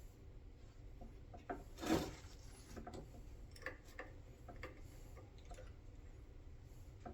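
Faint small clicks and ticks, with one brief louder scraping rub about two seconds in, from the shifter's neutral safety switch being moved and repositioned by hand.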